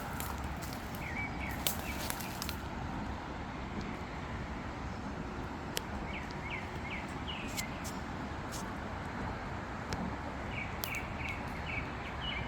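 A small bird chirping in three short runs of quick, repeated notes over a steady outdoor hiss, with a few scattered light clicks.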